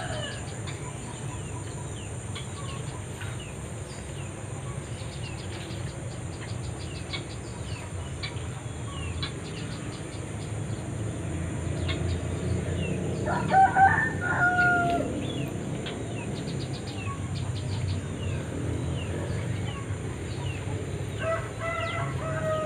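A rooster crowing twice, once about halfway through and again near the end, with the second crow cut off. Small birds chirp faintly throughout over a steady high-pitched drone.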